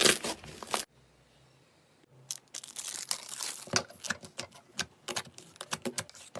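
Clear slime being squeezed and worked by hand, crackling and popping as trapped air bubbles burst. A dense run of crackles stops about a second in, then, after a short pause, scattered sharp pops and clicks resume.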